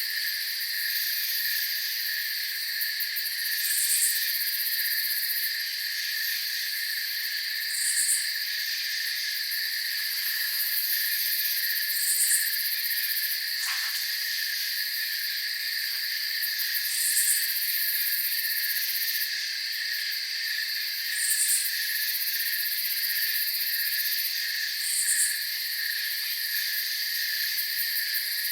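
Night chorus of crickets trilling steadily, with a short higher chirp repeating about every four seconds.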